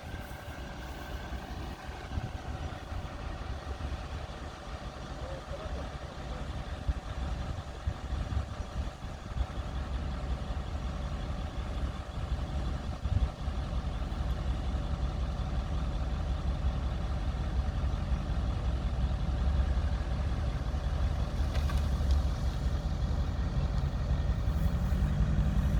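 Off-road SUV engine running steadily with a low rumble, growing gradually louder toward the end.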